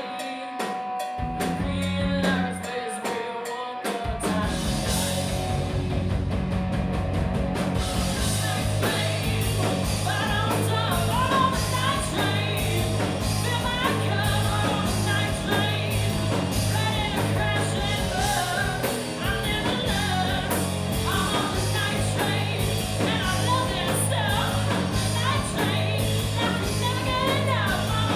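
A live rock band plays a hard-rock song, with singing over electric guitar, bass and drum kit. The opening few seconds are sparser, and the full band with drums comes in about four seconds in.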